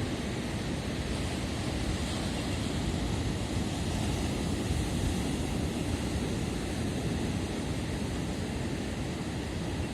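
Winter sea surf washing in steadily, with wind rumbling on the microphone.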